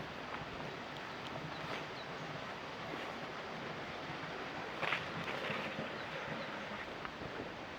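Steady rush of a waterfall, an even noise of falling water with a few faint clicks.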